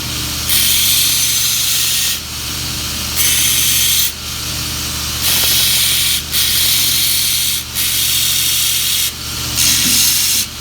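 Belt grinder running with a steady motor hum while a steel knife blank is pressed against the belt in repeated passes of about a second each. Each pass brings a loud grinding hiss that drops away briefly between passes.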